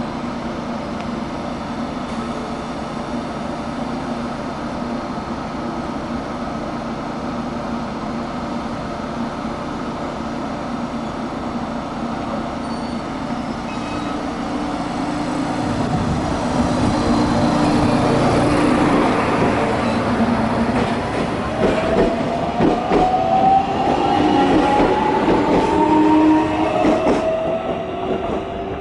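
JR Kyushu 813 series electric train pulling out of a station. It hums steadily while standing. From about halfway it grows louder with the electric traction motors' whine rising in pitch, and wheels click over rail joints as it gathers speed.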